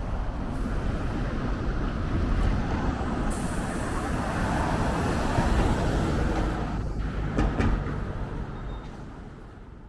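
Subway train running through the station, a steady low rumble that fades away over the last couple of seconds.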